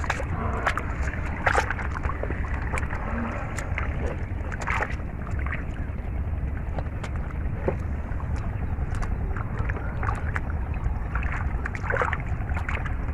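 Irregular splashing and sloshing of shallow water, as from someone wading and groping with their hands, over a steady low wind rumble on the microphone.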